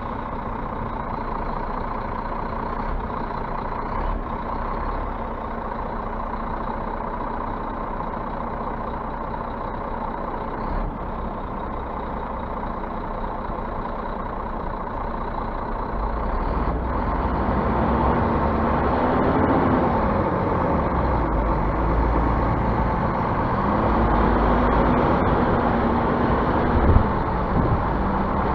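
Scania bus engine running steadily, then louder from about the middle on, its pitch rising and falling twice as it revs.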